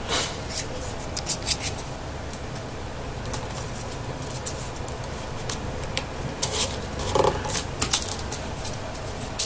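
Folded paper triangle units of a 3D origami model rustling and clicking as they are handled and pushed into each other's pockets: irregular short crinkles and taps, busiest around seven to eight seconds in, over a steady low hum.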